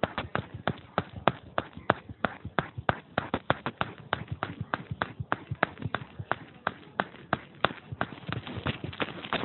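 Rapid, irregular hard taps and clicks, about three to five a second, getting busier near the end.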